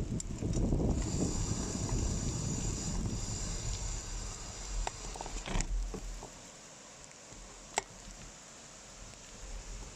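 Bicycle descending a wet road: a low rumble of wind and tyres, with a high, steady squeal from the disc brakes for a couple of seconds near the start. About six seconds in the rumble drops away, leaving a quieter stretch with a couple of sharp clicks.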